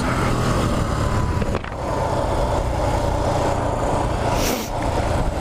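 The 1983 Honda C70 Passport's small single-cylinder four-stroke engine running steadily under way, heard with wind noise over the microphone, with a short dip in the sound about one and a half seconds in.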